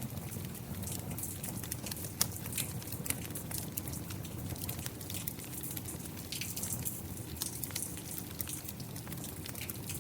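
Wood fire crackling with frequent sharp pops over a steady patter of rain.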